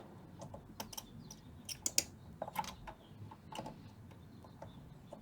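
Light, irregular clicks and taps of hand tools working a hooked wire lead off a solder terminal in a vintage tube amp chassis.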